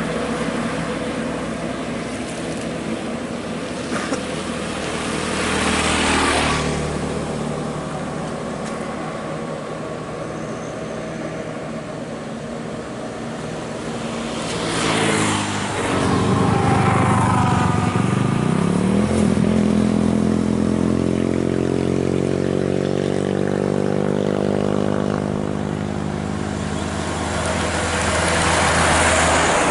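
Heavy road traffic with trucks and buses going by close: engine and tyre noise swells as vehicles pass about 6, 15 and 29 seconds in. After the middle, a heavy vehicle's engine rises steadily in pitch as it accelerates away.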